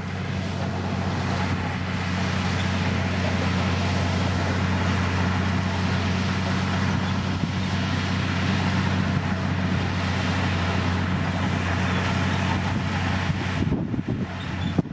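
Diesel engine of a Komatsu D60P bulldozer running steadily, a low, even hum with a broad rumble over it, dipping briefly near the end.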